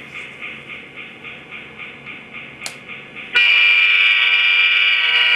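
Sound decoder of an HO-scale Proto 2000 CNR RS-10 model diesel locomotive playing its locomotive bell, ringing about three strokes a second. About three seconds in, its diesel horn comes in loud and steady.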